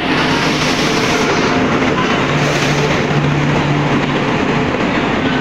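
An Indian Railways WAP-7 electric locomotive and its train running past along the platform: a loud, steady rush of wheels on rails with a steady low hum over it.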